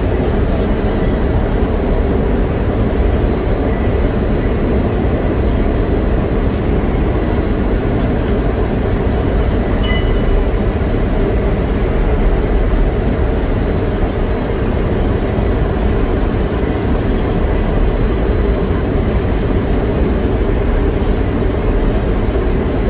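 Loud, steady engine-room noise of running generator engines: a constant low, heavy machinery rumble with no let-up.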